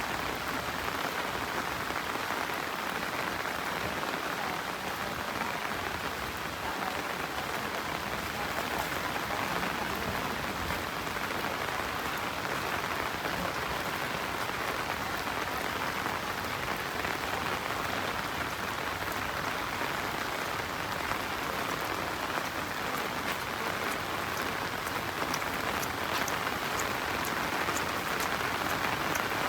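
Steady rain falling on the ground and surrounding foliage, a constant even hiss with fine drop patter.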